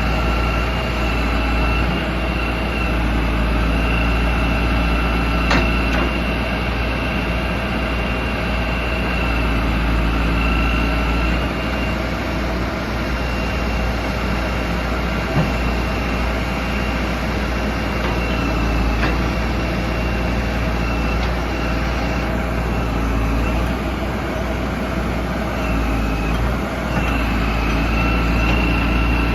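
HZM 788 backhoe loader's Cummins diesel engine running steadily, with a steady high-pitched whine over the rumble and a few short clicks.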